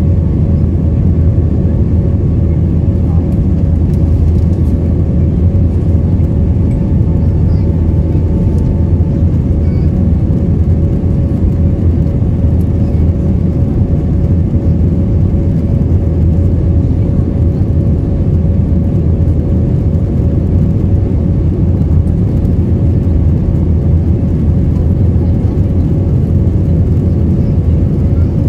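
Steady roar of an Airbus A321's jet engines and rushing air heard inside the passenger cabin, a loud low rumble with a faint steady hum above it.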